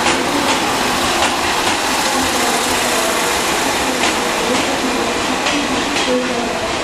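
JR West 103 series electric train rolling slowly along the platform: a steady rumble and hum, with its wheels clacking over rail joints every half second to a second.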